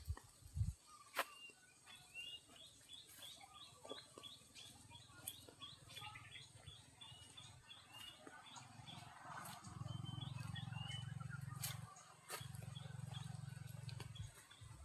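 A bird calling a steady series of short, high chirps, about two a second. Later a low, steady hum comes in, breaks off briefly, and resumes.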